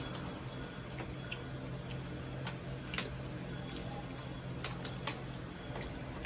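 Eating sounds: irregular sharp clicks and crackles from chewing crispy pork knuckle and handling the food, over a steady low hum.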